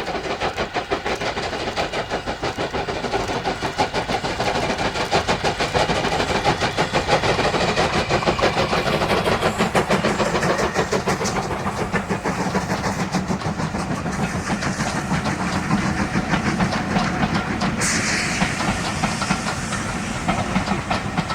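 Two steam locomotives double-heading a train, working with fast, overlapping exhaust beats as it passes, the carriage wheels clicking over the rail joints. A sudden hiss of steam breaks in near the end.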